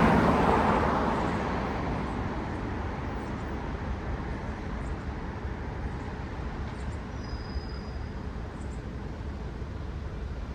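Road traffic: a car passes close at the start, its noise fading over the first two seconds, then a steady low rumble of more distant traffic.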